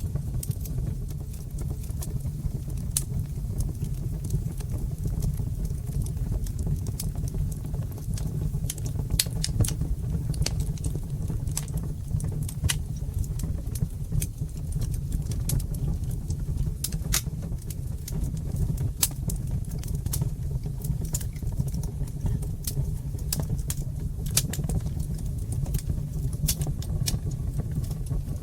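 Fireplace fire crackling: frequent sharp, irregular pops and snaps over a steady low rumble.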